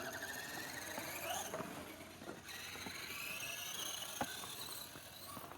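Traxxas Slash RC truck's electric motor whining, rising in pitch twice as it speeds up, with a few sharp clicks.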